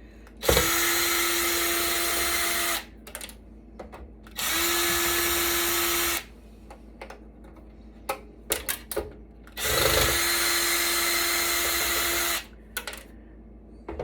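Cordless power drill or driver running in three steady bursts of about two to three seconds each, backing out stuck screws from server hardware, with small clicks and knocks of handled parts between the bursts.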